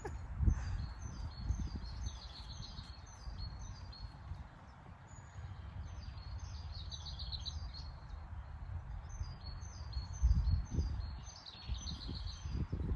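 Small birds chirping again and again, with trills a few times. Under them wind buffets the microphone with a low rumble that comes in gusts, the strongest about ten seconds in.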